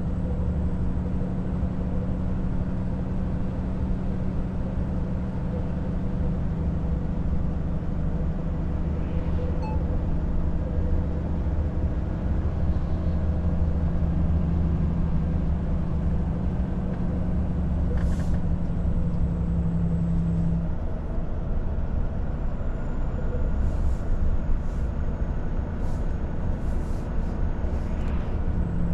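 Volvo FH truck's engine droning steadily from inside the cab while driving, with road noise underneath. The engine note eases off about two-thirds of the way through and comes back near the end, with a few short sharp clicks in between.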